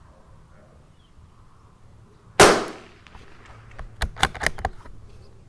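A single shot from a Tikka T1x bolt-action .22 LR rifle about two seconds in, a sharp crack with a short tail. About a second and a half later comes a quick run of metallic clicks as the bolt is worked to eject the case and chamber the next round.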